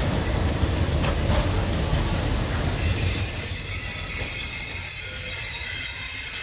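Train running with a low rumble; about halfway through, a high, steady squeal of wheels on the rails sets in and holds, growing a little louder.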